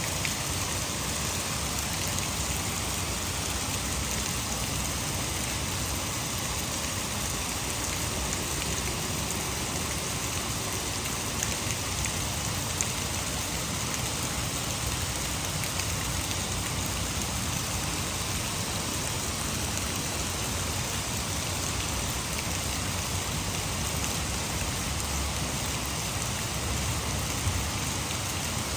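Heavy rain falling steadily, an even hiss of rain on surfaces, with a couple of brief sharper drop hits.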